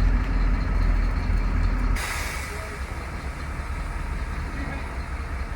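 A truck's compressed-air system hissing: a low steady rumble drops away about two seconds in and a sudden, steady hiss of released air takes over.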